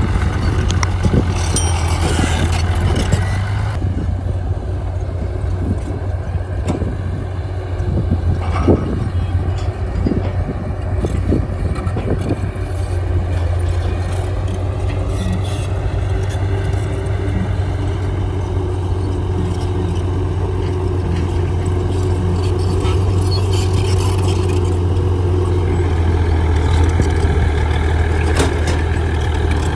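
Heavy diesel earthmoving machinery running steadily, with repeated metallic clanks and knocks over the engine's low drone.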